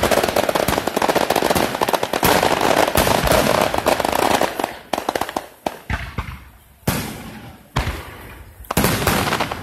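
Aerial fireworks: a dense stretch of rapid crackling for about the first five seconds, then single booms about a second apart.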